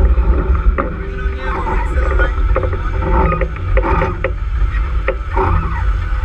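A sailboat under way in a fresh breeze: wind rumbles and buffets the microphone, over the rush and slap of water along the hull.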